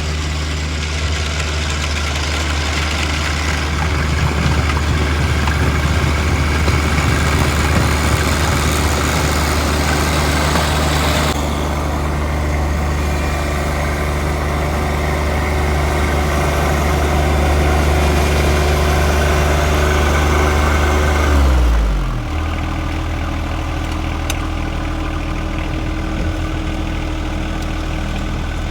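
John Deere 1025R compact tractor's three-cylinder diesel running steadily at high revs, with a hissing whirr over it that drops away about eleven seconds in. About twenty-two seconds in the engine is throttled down, its pitch falling, and it settles to a lower idle.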